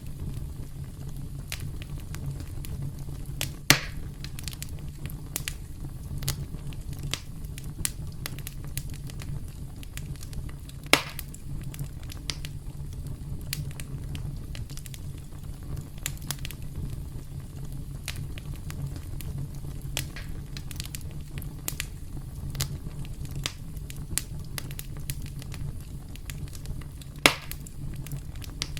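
Campfire burning with a steady low rumble and frequent small crackles, with three sharp louder pops at about 4, 11 and 27 seconds in.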